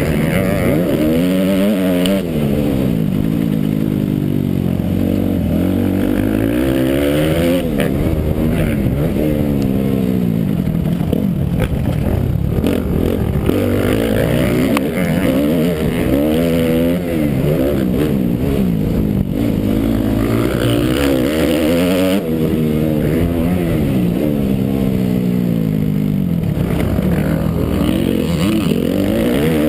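Suzuki RM-Z motocross bike's single-cylinder four-stroke engine under hard riding, its pitch climbing and dropping back over and over as the throttle is opened and closed through the track's turns.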